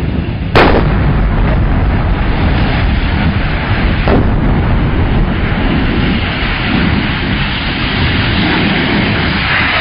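A propane tank explosion: a loud blast about half a second in, then a continuous loud rumble, with a second, smaller bang about four seconds in.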